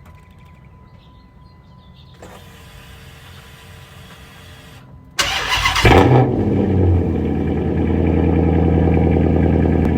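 Straight-piped 2006 Chrysler 300C Hemi V8 cold-starting. After a few quiet seconds, the engine cranks and catches about five seconds in with a loud burst, then settles into a steady, loud idle.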